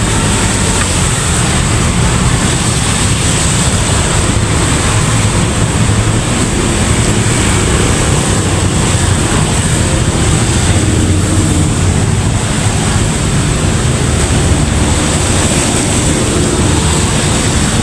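A vehicle engine running steadily under loud, even wind and road noise.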